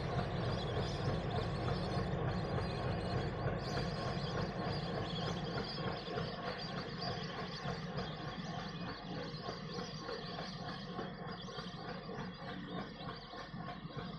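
Train departing behind a WDM-3D diesel locomotive, whose ALCO 16-cylinder engine runs under load with the coaches rumbling along the rails; the sound slowly fades as the train pulls away.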